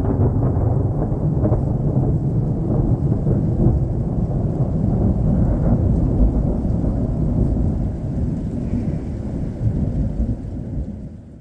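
Deep, loud rolling rumble of thunder that eases off over the last few seconds, with rain falling.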